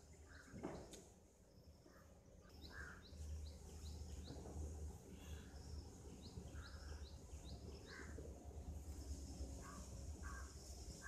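Faint birds calling: repeated short calls and quick high chirps, over a low steady rumble, with one brief knock under a second in.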